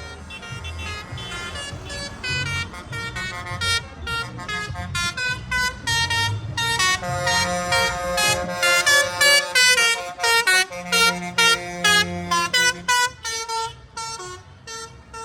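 Vehicle horns sounding a rapid string of short notes like a tune, loudest in the second half, over the low rumble of tractor engines running.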